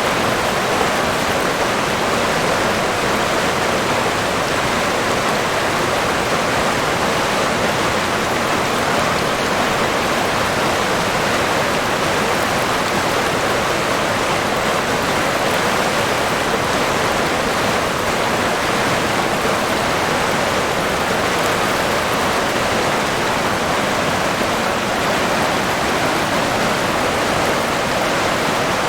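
River water rushing steadily, a continuous even rush with no breaks.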